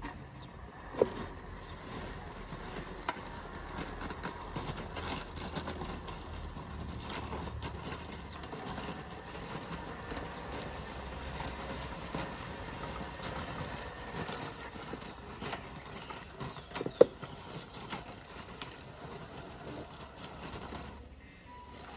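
Small electric motors of RC construction machines running, with irregular clicking and clattering of plastic and metal parts, a faint whine that rises and falls in the middle, and two sharp knocks, one just after the start and a louder one about three-quarters of the way through.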